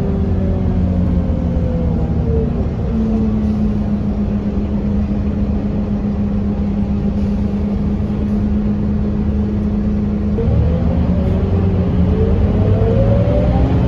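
Scania K230UB bus's five-cylinder diesel engine: it runs down in pitch as the bus slows, holds a steady low note for about seven seconds, then rises again as the bus pulls away and accelerates.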